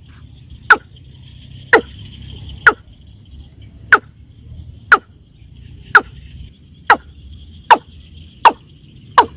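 Watercock calling: a loud, short, downward-sliding note repeated about once a second, coming a little faster near the end, over a steady high insect hum.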